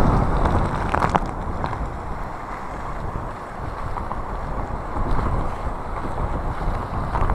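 Typhoon wind buffeting a phone's microphone: a heavy, rumbling rush of noise that eases about three seconds in and then picks up again in a fresh gust.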